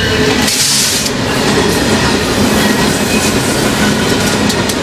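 BNSF double-stack freight train passing close at speed: the lead diesel locomotive rushes by with a burst of hiss about half a second in, then the stack cars roll past, their wheels running loudly on the rails.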